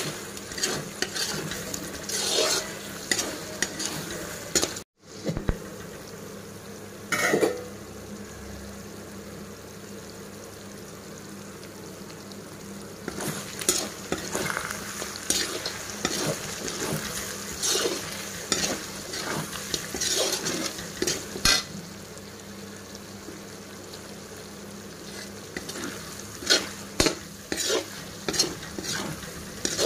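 Chicken pieces frying in oil in a pan with a steady sizzle, while a ladle stirs and scrapes them round the pan in irregular clusters of strokes. The sound drops out for an instant about five seconds in.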